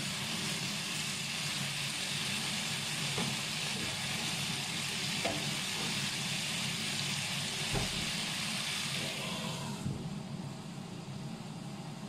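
Sliced bitter melon, onion and tomato sizzling in a frying pan, with a few knocks of a spatula against the pan. Near the end the sizzle turns muffled as a glass lid goes on the pan, over a steady low hum.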